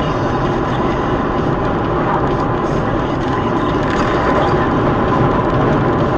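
Steady, loud rushing noise of a moving vehicle.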